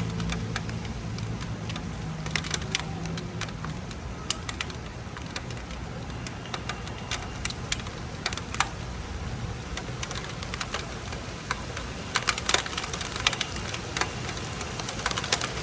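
Raindrops starting to fall: scattered, irregular sharp ticks of large drops hitting a surface over a steady hiss, growing more frequent near the end. A low hum fades out in the first few seconds.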